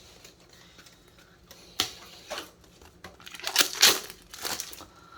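Crinkling and rustling of a foil trading-card booster pack wrapper being handled, in several short bursts, the loudest cluster about three and a half to four and a half seconds in.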